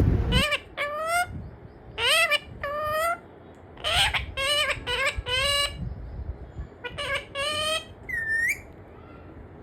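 A parrot giving a string of short, squeaky, speech-like calls, most sliding upward in pitch and coming in twos and threes, followed by a short whistle that dips and rises near the end.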